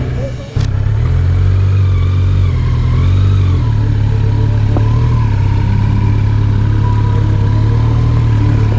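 A motor vehicle's engine running steadily while driving, a loud, even drone heard from on board. There is a brief drop and break in the sound about half a second in.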